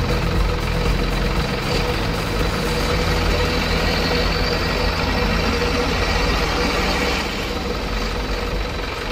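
Truck engine sound running steadily at a low, even speed, dropping a little in loudness about seven seconds in.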